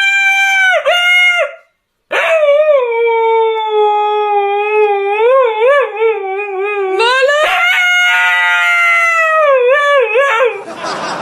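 A dog howling in long, wavering howls: one breaks off about a second and a half in, then a long lower howl, then a higher one that sinks in pitch. A short burst of rushing noise comes near the end.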